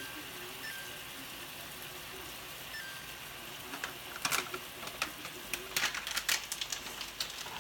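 Chicken pieces frying with a steady sizzle in soy-teriyaki marinade in a stainless skillet on an electric cooktop. Two short beeps from the range's touch controls sound in the first few seconds, and from about halfway a run of sharp clicks and crackles stands out over the sizzle.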